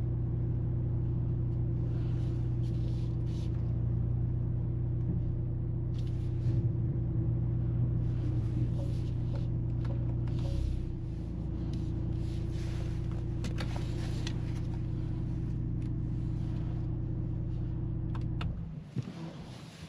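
Mercedes-AMG GLC 43's turbocharged four-cylinder engine running at a steady, unchanging pitch, with a few light clicks midway, then shutting off about eighteen seconds in.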